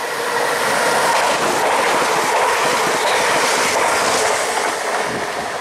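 Class 380 electric multiple unit passing close by along the platform: a loud, steady rush of wheels on rail with some clickety-clack and a faint steady tone, easing slightly near the end.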